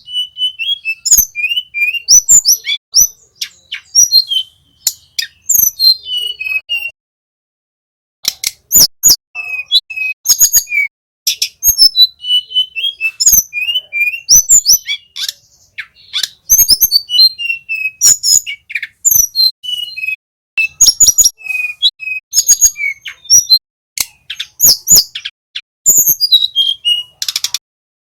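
Tledekan gunung (a blue flycatcher) singing loudly in fast runs of sharp chirps, short downward-sliding whistles and rattling trills, broken by two brief pauses.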